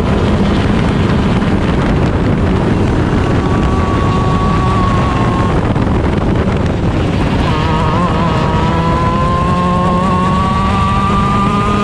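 Honda 125 cc two-stroke shifter kart engine at full race pace, heard onboard under heavy wind and tyre noise. From about seven seconds in its note climbs steadily as the engine pulls up through the revs.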